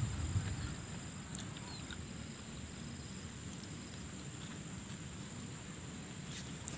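Faint chewing of a batter-fried flip-flop, with small crunches about a second and a half in and near the end, over a steady high whine.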